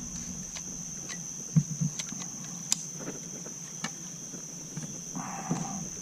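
Steady high-pitched chorus of night insects, crickets in the creek-side brush, with a few light clicks and knocks scattered through it.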